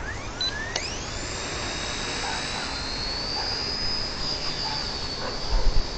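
XK K100 micro RC helicopter's electric motor spooling up, a whine that climbs steeply about a second in and then holds high, edging slowly higher. Wind buffets the microphone near the end.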